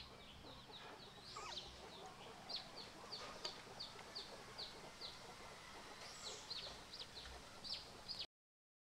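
Birds chirping: a steady run of short, high, falling chirps, a few a second, faint against low background noise, cutting off suddenly near the end.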